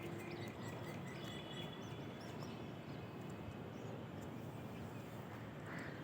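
Morning outdoor ambience: a steady background wash of noise with faint, scattered chirps and short calls of small birds, busiest in the first couple of seconds.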